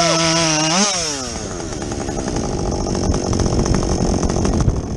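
Husqvarna 562XP chainsaw with a modified muffler, running at a steady high pitch under load in the cut. About a second in the revs flare up briefly as the chain comes free, then fall away to a rough, lower idle.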